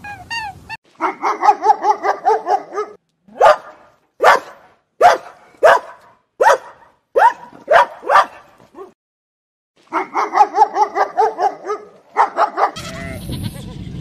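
Small toy dog barking: a run of quick, quavering high yaps, then about eight single sharp barks roughly two-thirds of a second apart, then another run of quick yaps.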